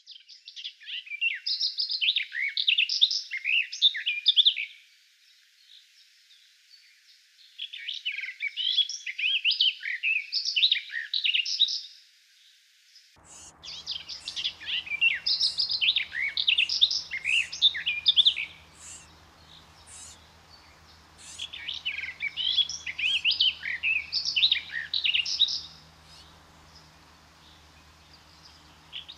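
Garden warbler singing: four long, rapid, varied warbling phrases of a few seconds each, separated by short pauses.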